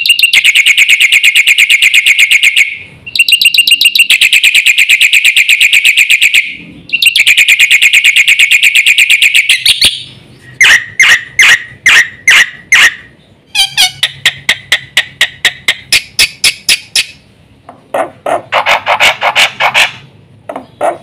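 Black-winged myna (jalak putih) in full song. It gives three runs of rapid, evenly repeated high chirps, each about three seconds long, then a looser passage of separate sharp notes and fast trills broken by short pauses.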